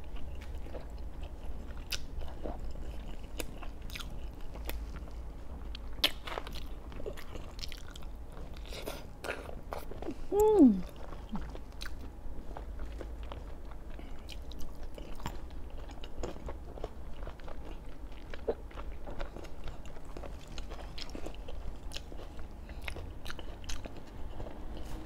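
Close-miked chewing and biting of braised pork belly: wet mouth clicks and small crunches coming irregularly throughout. About ten seconds in there is a brief hummed "mm" that falls in pitch.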